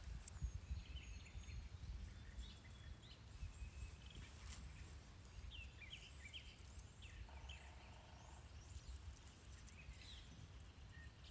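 Small birds chirping and calling on and off in the background, over a faint low steady rumble.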